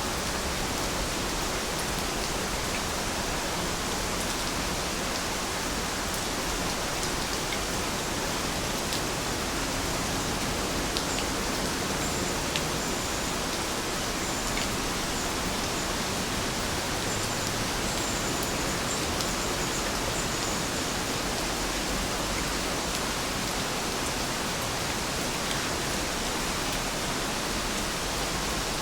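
Steady rain falling: an even, unbroken hiss with an occasional faint drop tick.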